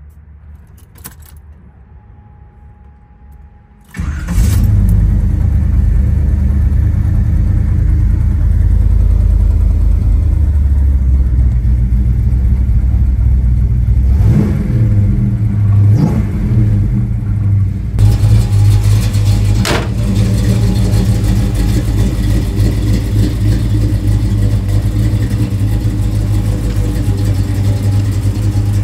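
1972 Chevrolet Chevelle Malibu's engine starting about four seconds in and settling into a steady idle, with brief revs around the middle.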